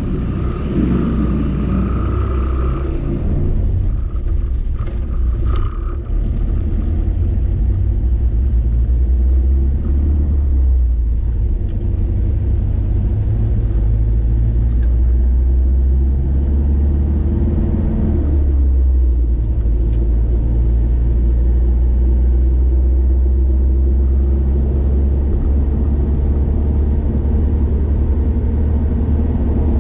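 Car engine and road noise heard from inside the cabin as the car drives on and picks up speed, a steady low rumble whose engine note shifts in pitch a few times.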